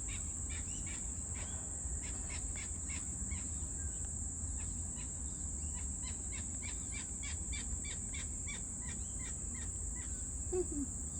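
Birds giving many short chirps in quick, irregular series over a steady high drone of insects, with a low rumble underneath.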